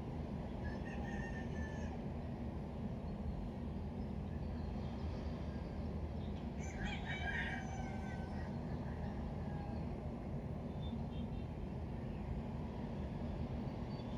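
Rooster crowing twice, a short call about a second in and a stronger, longer one around seven seconds in, over a steady low hum.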